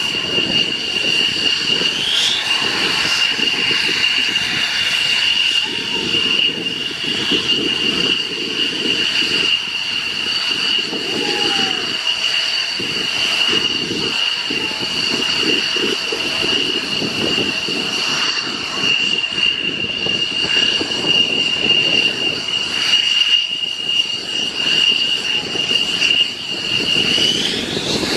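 Aircraft engine running with a steady high whine over a rumbling noise. The whine rises briefly in pitch about two seconds in and climbs again near the end.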